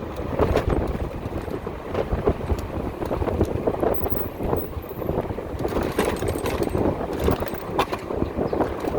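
Wind buffeting the microphone over street traffic noise, a rough fluttering rumble with a few short ticks.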